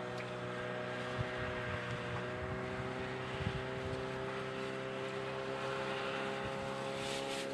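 A motorboat's engine running steadily, a constant hum whose pitch creeps slightly upward, over light wind noise.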